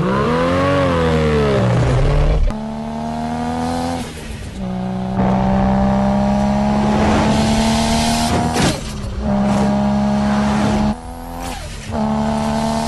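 Infiniti Q50's V6 through a resonated aftermarket downpipe exhaust: one rev that rises and falls, then long pulls under acceleration with the pitch climbing steadily. Short dips about 4, 9 and 11 seconds in break the pulls, like gear changes.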